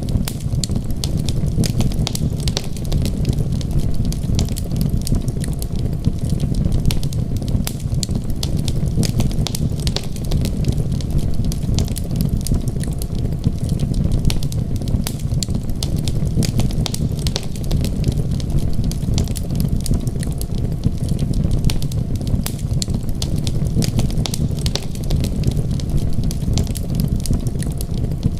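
Wood fire crackling: a constant scatter of small sharp pops and snaps over a steady low rumble.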